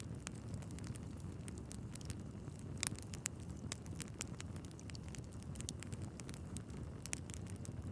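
Wood fire burning in a fireplace, with a steady low rumble of flames and frequent sharp crackles and pops from the logs, a couple of them louder than the rest.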